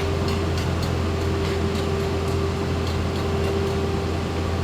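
A machine running steadily, a low drone with a held higher tone that stops shortly before the end, and a few faint light clicks.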